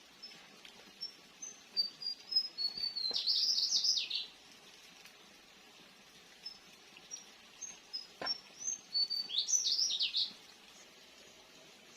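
A songbird singing two phrases about six seconds apart, each a run of short, high, separate notes that breaks into a fast, jumbled flurry before stopping.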